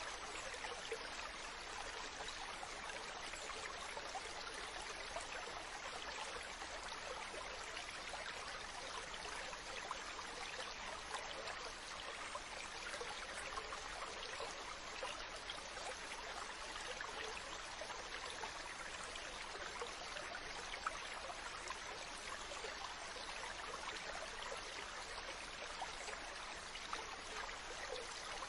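Mountain stream running steadily over rocks: a continuous rushing babble with small splashes and trickles in it.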